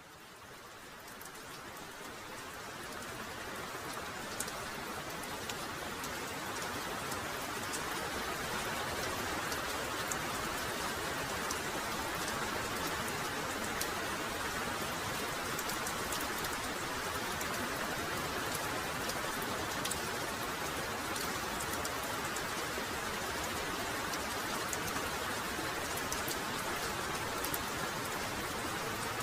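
Heavy rain pouring steadily, with scattered sharp hits of single drops close by. It fades in over the first few seconds, then holds steady.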